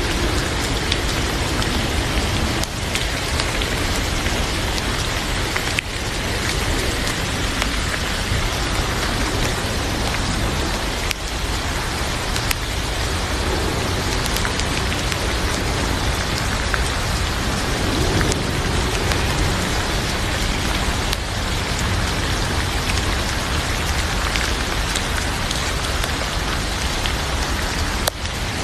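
Heavy rain falling steadily, a dense, even hiss of drops, with scattered sharp pops from a crackling fireplace.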